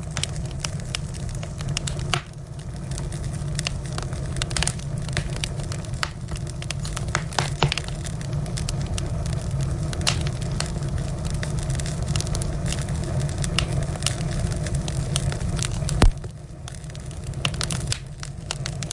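Wood fire crackling and popping: many sharp snaps over a steady low rumble of flames, with one loud pop near the end.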